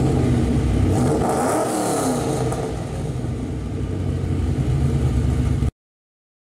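Ford Mustang GT's 5.0 V8 engine and exhaust running loud, its pitch dipping and rising again about two seconds in. The sound cuts off abruptly near the end.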